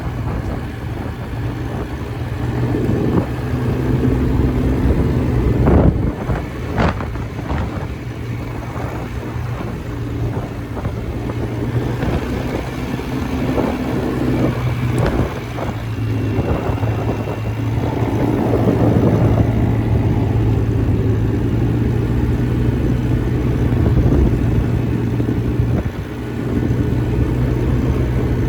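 Quad bike engine running steadily while riding, with a few sharp knocks about six and seven seconds in.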